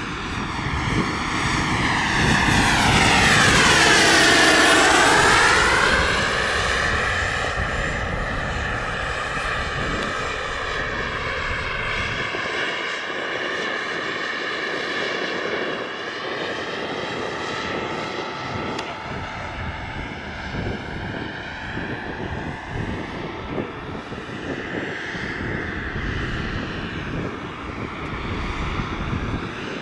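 Radio-controlled model helicopter flying, with a steady pitched motor and rotor sound. It is loudest about four seconds in, where its pitch dips and then climbs back, and it runs on more evenly after that.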